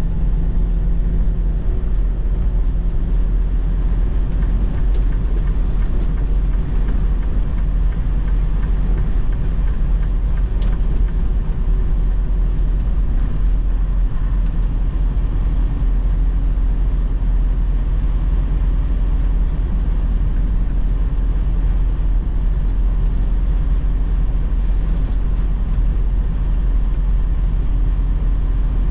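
Semi-truck driving, heard inside the cab: a steady low rumble of engine and road noise with a faint droning tone.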